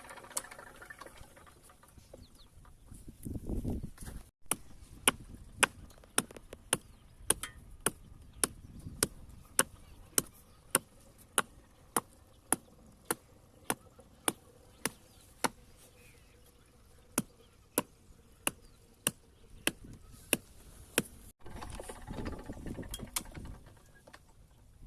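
A long run of sharp, evenly spaced knocks, a little under two a second, that starts and stops abruptly. There is low rumbling before and after.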